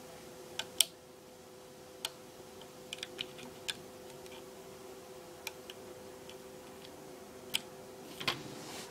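Irregular light clicks and ticks of rubber bands and a plastic loom being worked by hand to make a bracelet, over a steady low hum.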